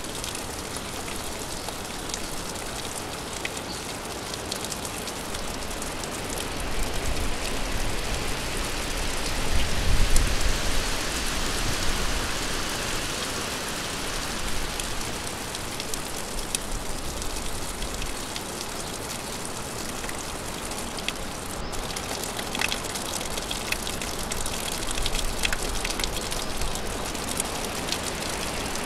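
Steady rain falling, with scattered individual drops ticking on a surface; it swells louder for a few seconds about ten seconds in, then settles back.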